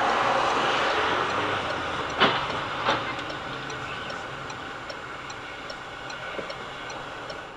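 Steady rushing noise of a moving vehicle that slowly fades, with two sharp knocks a little over two seconds in and again just under a second later.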